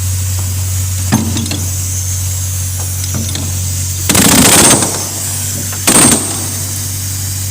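An engine runs steadily with a low hum. About four seconds in, a spray hisses in a short blast of about half a second, then in a shorter one about two seconds later, with a few light clicks of handled tools earlier.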